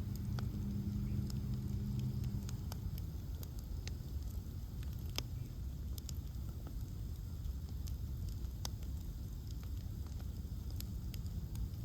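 Bonfire of ash logs burning, crackling with scattered sharp pops over a steady low rumble. A low hum is also heard at the start and fades out about two and a half seconds in.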